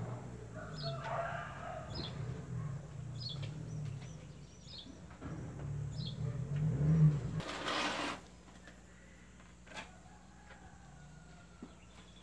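A small bird chirping in short high notes, repeated about once a second, over low rumbling handling noise. A loud rustle about seven seconds in, after which it goes quieter.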